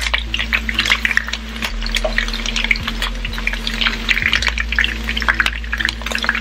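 Sliced red onions frying in hot canola oil in a skillet: a steady, dense crackle and sizzle of the oil bubbling around them.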